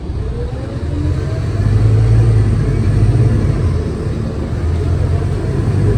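Scania K320UA articulated bus running with a steady low rumble, growing louder about a second and a half in.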